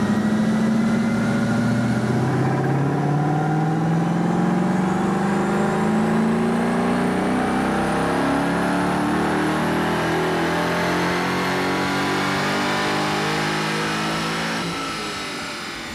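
Ford Mustang Boss 302's 5.0-litre V8 making a wide-open-throttle pull on a chassis dyno. It holds a steady note for about two seconds, then its pitch climbs smoothly for some twelve seconds before it backs off near the end.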